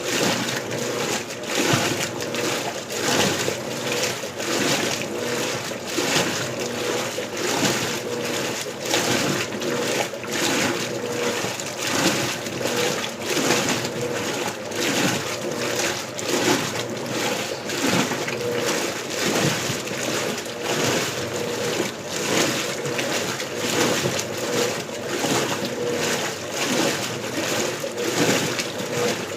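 Electrolux LBU15 top-loading washing machine agitating on turbo agitation: water and clothes slosh and splash in repeated surges over a steady motor hum.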